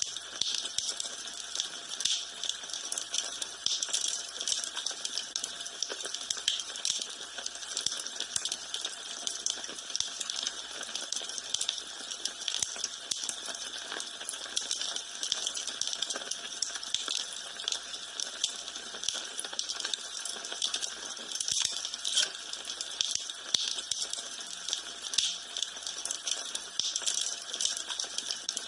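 Wood fire in a fireplace crackling steadily: a dense, irregular run of small sharp snaps and pops over a soft hiss.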